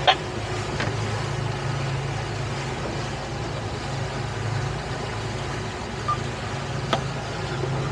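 Towboat's engine running steadily at reduced power while under way with a boat in tow, a steady low drone, with a brief click about seven seconds in.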